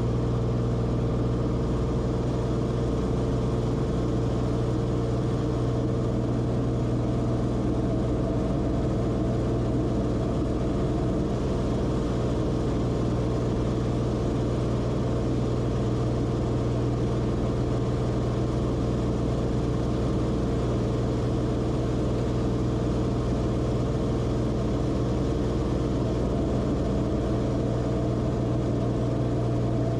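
Cessna Corvalis TTX's turbocharged six-cylinder Continental engine and propeller running at a steady power setting: an even drone with a strong low hum that does not change.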